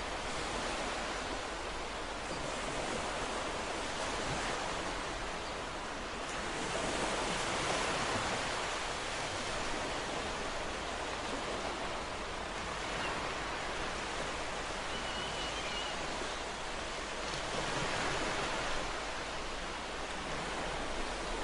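Ocean surf washing in: a steady rush of waves that swells louder twice, about a third of the way in and again near the end.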